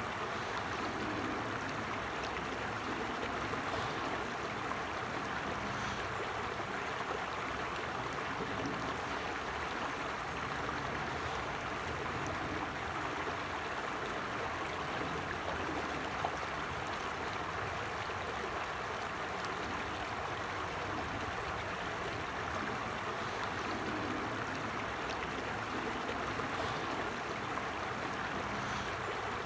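A shallow stream running steadily, its water rushing and gurgling over stones.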